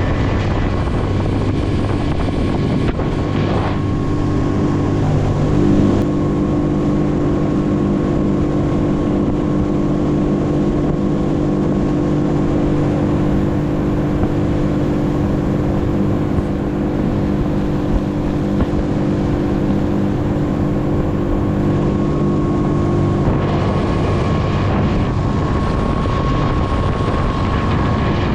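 A duck boat's motor running at speed across open water, with wind buffeting the microphone. The engine note steps up a few seconds in and changes again near the end.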